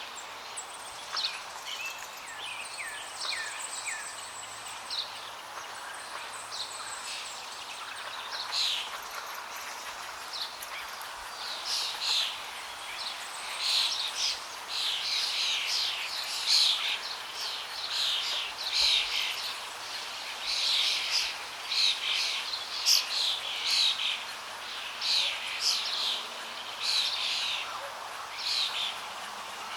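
Many small birds chirping and calling, quick short notes that grow busier about a third of the way in, over a steady hiss of flowing water.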